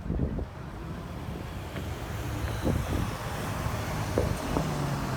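City street traffic, with a motor vehicle's engine hum growing steadily louder as it approaches in the second half.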